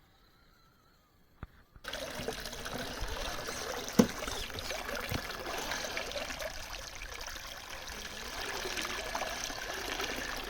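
Near silence for about the first two seconds, then a small stream of running water trickling steadily, with one sharp knock about four seconds in.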